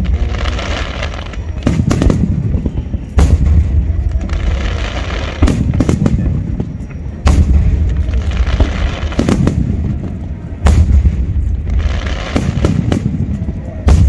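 Large aerial firework shells bursting in quick succession, about seven loud booms roughly every two seconds. Each boom starts sharply and trails off in a rolling low rumble.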